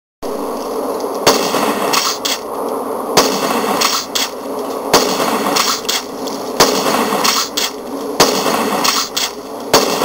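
Single-barrel shotgun fired six times, one shot about every second and a half, with short metallic reloading clicks between the shots. A steady buzzing hiss runs under it all.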